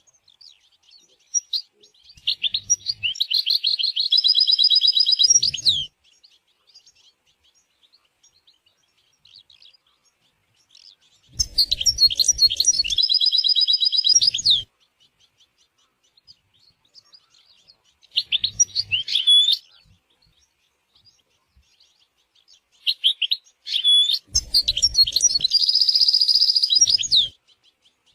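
European goldfinch singing: four bouts of fast, high twittering song with trills and sweeping notes, each lasting a few seconds, separated by faint scattered chirps.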